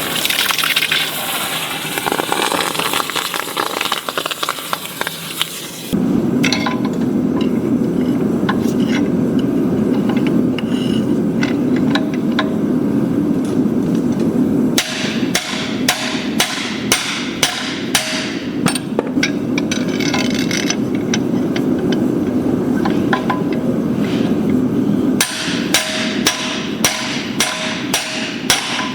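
Hammer blows ringing on an anvil as hot steel is forged, in two spells of about two strikes a second, over a steady low rushing noise. The first six seconds hold a loud hiss that cuts off suddenly.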